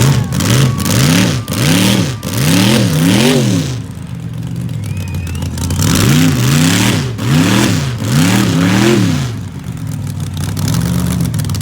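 Truck engine revved hard in quick blips, its pitch rising and falling about five times, then settling back to idle. After a pause of a couple of seconds it is revved again in another run of about five blips before idling.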